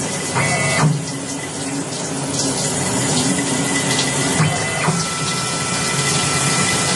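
Emco Turn 220 CNC lathe running, with a steady rushing noise throughout. Brief stepped motor tones sound about half a second in and again just after four seconds, as the axes move. A steady high whine holds from about five seconds on.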